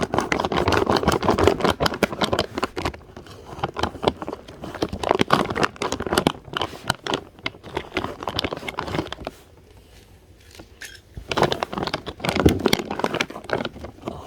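A plastic bag of peanuts crinkling and rustling as it is handled and cut open with a knife, with a brief pause about two-thirds of the way through.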